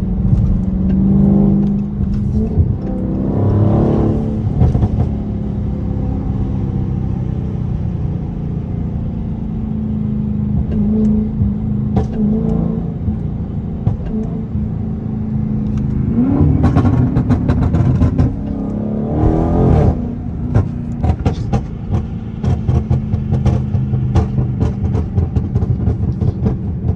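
Dodge Charger's 392 HEMI V8 under way, revving up hard a few seconds in and twice more past the middle. After the last pull it crackles and pops in a rapid string for the last several seconds as the throttle closes, the overrun pops of its pop tune.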